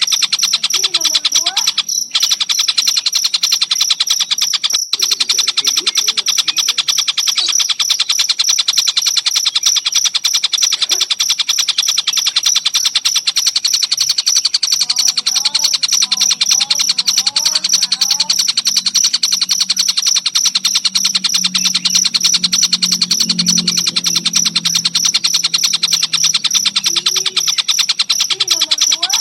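Crickets chirping in a fast, even, unbroken pulse, with softer short bird calls that rise and fall in pitch over it, most of them in the middle of the stretch.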